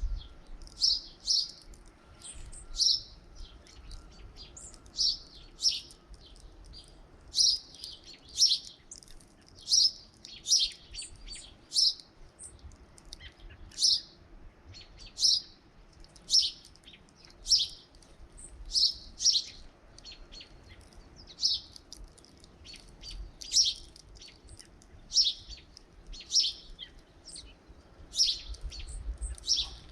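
Small songbirds at a feeder chirping, a steady stream of short, high chirps, several a second, coming irregularly and sometimes overlapping.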